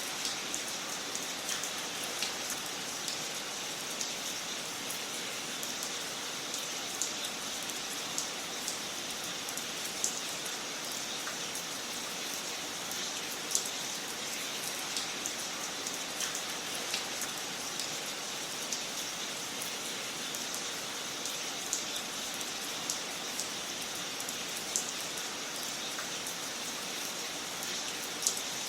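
Wood fire crackling in a fireplace: a steady hiss with frequent small sharp pops and a few louder ones scattered through.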